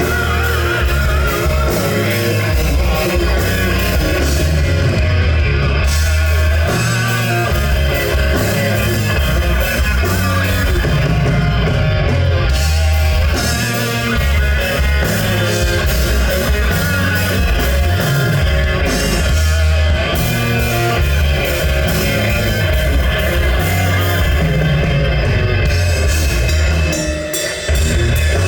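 Rock band playing live: electric guitars, bass and drum kit in a heavy rock song, with some singing. The music dips briefly near the end.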